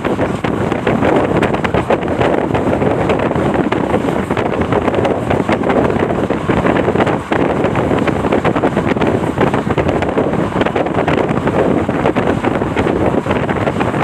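Loud, steady wind buffeting the microphone over a continuous rushing rumble, as of a train running along the track.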